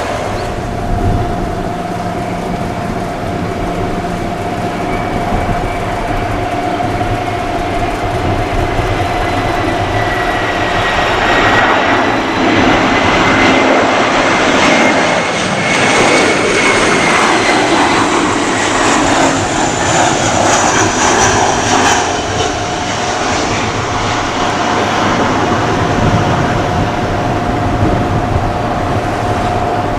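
Airbus A321-211 jet airliner with CFM56 engines passing low and close: the jet noise and engine whine build to a peak in the middle and then fade, the whine gliding up and then down in pitch as it goes by.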